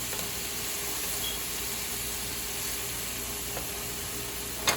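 Onions sautéing in butter in a pan, a steady sizzle, with a short knock near the end.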